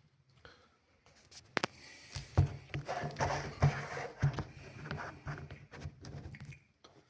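Close handling noise: rustling and irregular clicks and taps as hands work and fold material, busiest from about two seconds in and easing off near the end.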